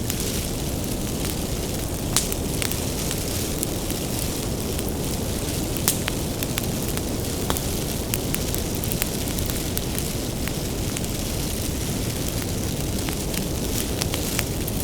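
Bonfire of firewood burning: a steady low rumble of flames with frequent sharp crackles and pops from the wood, a few of them louder.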